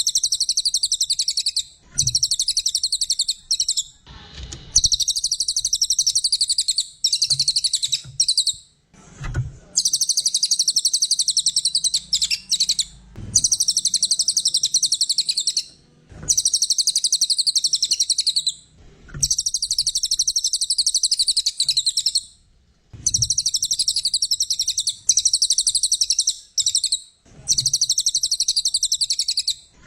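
Brown cililin songbird singing: rapid, high-pitched twittering phrases of a couple of seconds each, repeated with short breaks between them, as played for training other songbirds.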